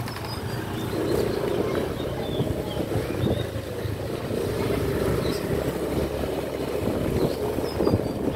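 Motor scooter engine running steadily while riding, with wind buffeting the microphone.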